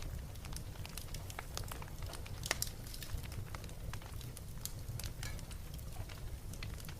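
Wood fire crackling and popping in a fireplace: irregular sharp snaps over a low steady rumble of the flames, with one louder pop about two and a half seconds in.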